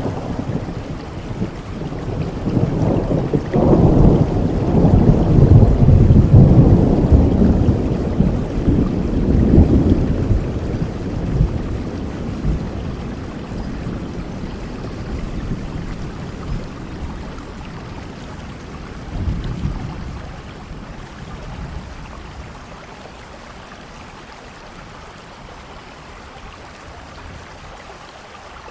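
Steady rain with a long roll of thunder that swells a few seconds in and rumbles away over several seconds, then a shorter, softer rumble about two-thirds of the way through; the rain grows fainter toward the end.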